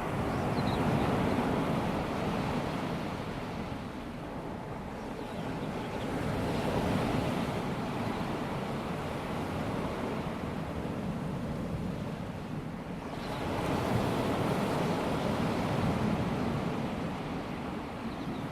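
Small waves of a calm sea breaking and washing up a sandy beach, a steady surf hiss that swells and eases with each wave, about every six or seven seconds.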